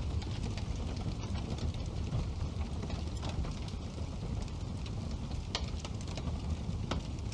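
Wood fire burning in a fireplace: a steady low rush of flame with scattered sharp crackles and pops, the clearest about five and a half seconds and seven seconds in.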